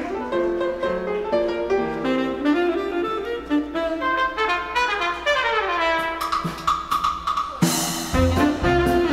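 A live dance band's horns, saxophones and brass, playing an introduction in melodic lines that fall in a run and settle on a held chord, then the full band with drums and bass comes in on a crash near the end.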